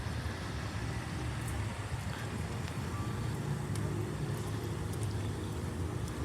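Steady low rumble of road traffic in a city.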